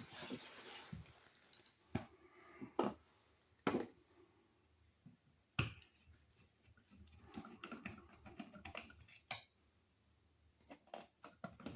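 Scattered light clicks and knocks of hand tools and electrical hardware being handled at a wall outlet, with soft rustling in between.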